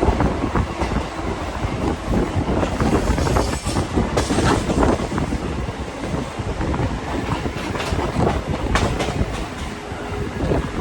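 MMTS suburban electric train running along the track, its wheels clattering irregularly over the rails in a continuous rumble.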